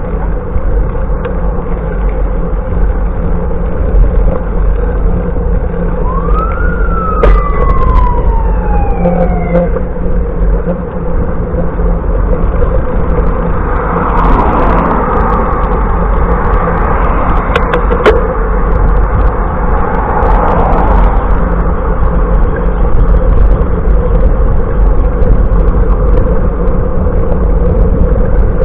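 Steady wind and road rush from riding a bicycle on the road, with a low rumble throughout. About six seconds in, a single siren-like wail rises quickly and then slides down over a few seconds. A louder swell in the middle sounds like traffic going by.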